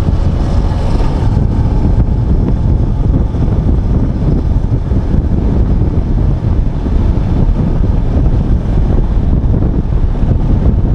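Heavy, steady wind rumble buffeting the microphone of a moving motorcycle.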